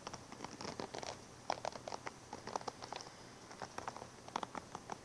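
A brush and comb stroked gently and softly, giving an irregular run of short, soft scratching strokes.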